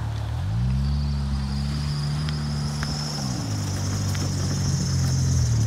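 Turbocharged Chrysler PT Cruiser's engine revving up, holding steady for a couple of seconds, then dropping back to a lower steady speed about three seconds in. A faint high whine slowly rises in pitch above the engine.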